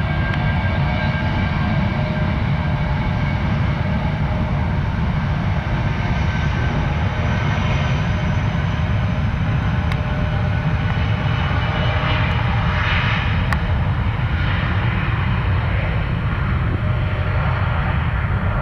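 Jet airliner engines running, a steady low rumble with a whine of several high tones over it.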